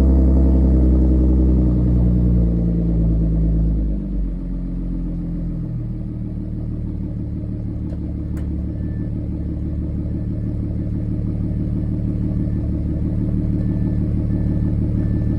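Audi A7 on a cold start, running through an aftermarket valved exhaust with the valves open: engine speed falls over the first few seconds and the exhaust settles into a steady, deep idle.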